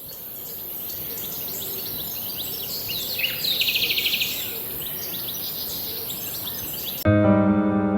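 Birds chirping and singing, with a fast trill a few seconds in, over a steady high hiss. About seven seconds in, piano music starts abruptly.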